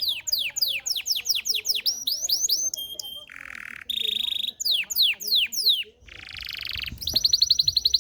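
Belgian canary singing: a quick run of falling whistled notes, steady buzzy rolls, then a fast, even trill starting about a second before the end.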